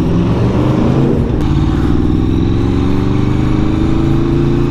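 Aprilia RSV4 Factory's V4 engine through an Akrapovic full titanium exhaust, heard from on board while riding: a brief break about a second and a half in, then the engine note climbs gently as the bike pulls in gear.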